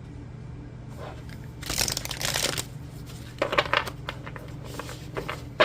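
Tarot cards being shuffled and handled. There is a rustling burst about two seconds in, then a run of quick flicks and taps, ending in a sharp snap near the end, over a steady low hum.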